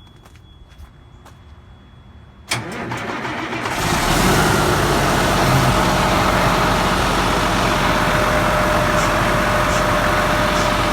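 Detroit Diesel Series 60 12.7-litre diesel in a semi truck, cold-started. After a couple of quiet seconds the starter cranks for about a second, and the engine catches and settles into a steady idle.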